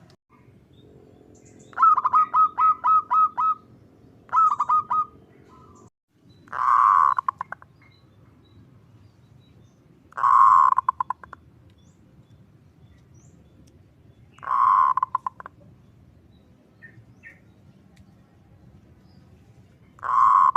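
Zebra dove (perkutut) calling: a quick run of short cooing notes, a second shorter run, then four longer, louder coos, each breaking into a fast rattle at its end, spaced about four seconds apart.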